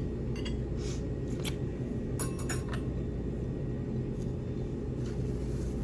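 Steady low room hum with a few light clinks of dishes and cutlery scattered through it.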